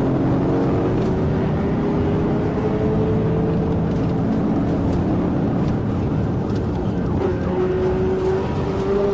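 Police patrol car driving at high speed in a pursuit: a steady, loud rush of engine and road noise, with an engine tone that rises slowly through the middle.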